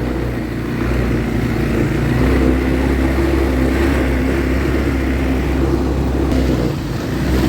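ATV engine running steadily as the quad is ridden along.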